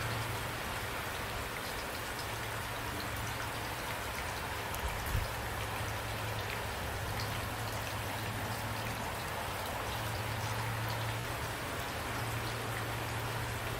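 Steady rain falling, an even patter of drops, with a brief low thump about five seconds in.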